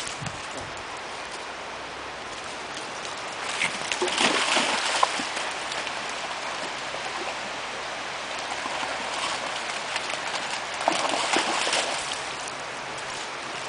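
River water running, with a dog splashing through it in two louder spells, about four seconds in and again about eleven seconds in.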